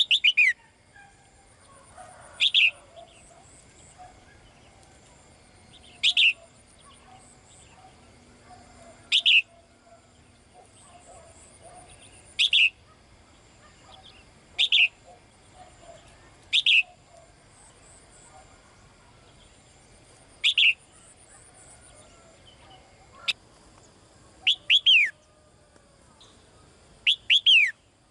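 Caged female bird calling to a male, repeating a short, loud, downward-sweeping note every two to three seconds, with the notes coming in twos and threes near the end. Faint chirping carries on between the calls.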